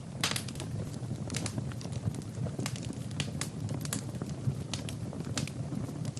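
Wood fire burning in a fireplace: irregular crackles and sharp pops, several a second, over a low steady rumble of the flames.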